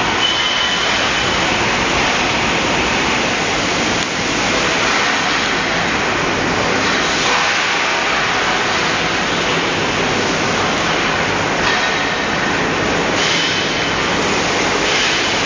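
Air conditioner running hard, a loud, steady rushing noise with no pauses.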